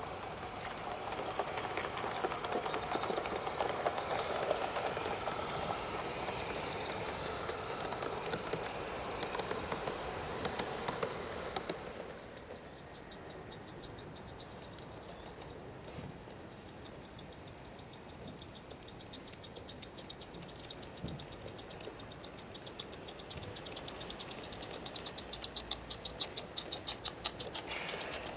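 Live-steam garden-scale locomotive running its train on the track, with a hissing, rumbling passage in the first part. Near the end comes a fast, even clicking of wheels and exhaust beats that grows louder as the train approaches.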